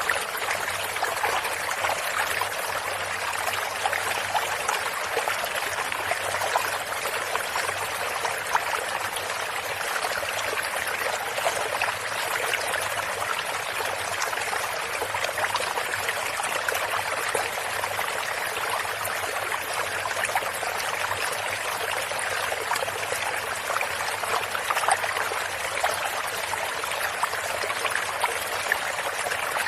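A small stream of water running and trickling steadily, with a constant babbling splash and no let-up.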